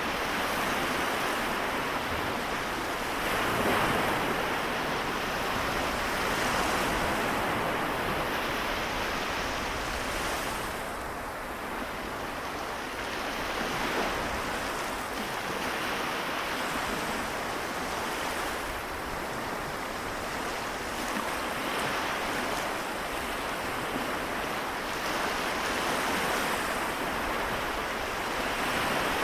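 Small waves of the Seto Inland Sea washing ashore, a continuous hiss of surf that swells and eases every few seconds.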